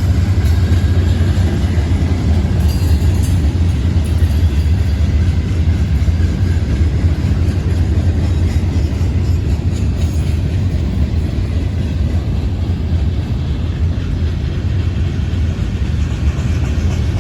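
Norfolk Southern freight cars rolling past close by, a steady heavy rumble of steel wheels on the rails.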